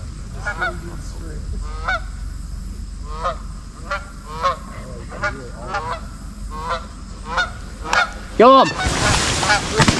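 Geese honking over and over, short calls coming every half second or so. Near the end a hunter shouts 'Go'.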